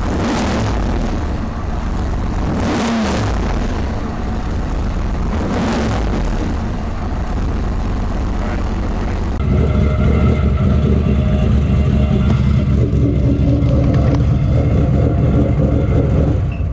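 Turbocharged LS6 V8 engine running during an oil-pressure and turbo oil-flow check, with a 2 mm oil restrictor newly fitted in the turbo oil feed. It gets louder about nine seconds in.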